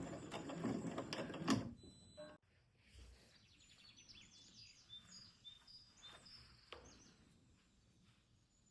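Sewing machine stitching for about a second and a half, then stopping. Faint bird chirps follow.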